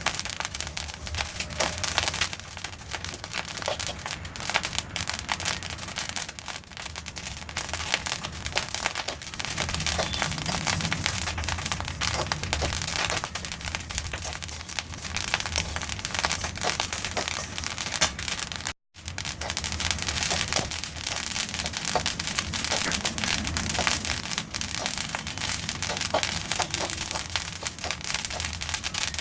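Black sesame seeds popping and crackling in a hot pan as they dry-roast, a dense, continuous patter of small pops like firecrackers. The popping shows that the seeds are still roasting and are not yet done. It cuts out for an instant about two-thirds of the way through.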